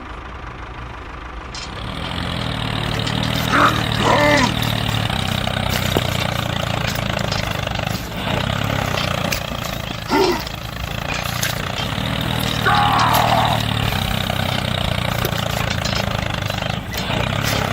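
A motor running steadily with a low hum, starting about a second and a half in, with a few short voice exclamations over it.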